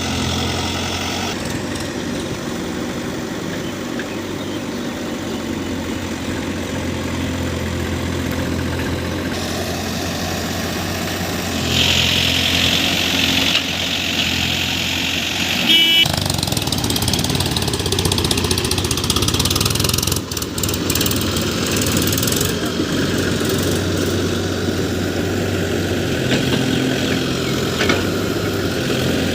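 Diesel engine of a JCB backhoe loader running steadily, with a louder, higher-pitched stretch for a couple of seconds about twelve seconds in and a short high tone around sixteen seconds.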